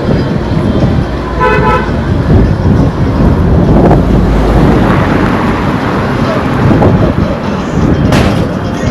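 Road traffic passing close, with a short car horn toot about a second and a half in.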